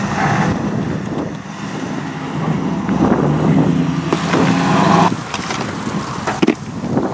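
Car engine running with a steady low rumble that grows louder about two and a half seconds in.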